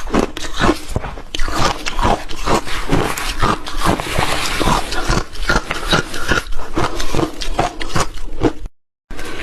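Frozen milky shaved ice being bitten and chewed close to the microphone: a rapid, irregular run of loud crunches. The sound cuts out completely for a moment near the end, then the crunching resumes.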